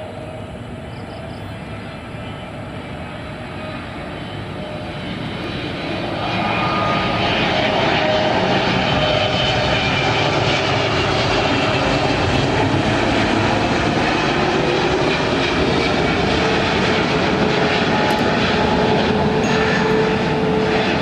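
Jet airliner's engines passing close by: the noise grows over the first six seconds to a loud, steady level, with whining tones that slowly slide in pitch.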